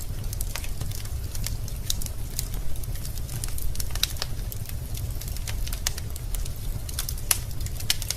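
Wood fire burning in a fireplace, with irregular sharp pops and crackles from the logs over a steady low rumble of the flames.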